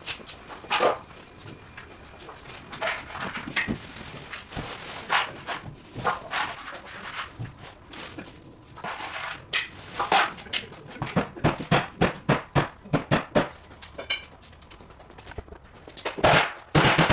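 Irregular knocks and clatters, with a quick run of them about two-thirds of the way through; music comes in near the end.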